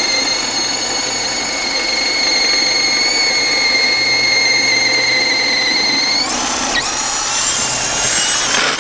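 Power drill running under load, boring a 1¼-inch hole with a large bit: a steady whine that shifts in pitch about six seconds in, stopping at the end.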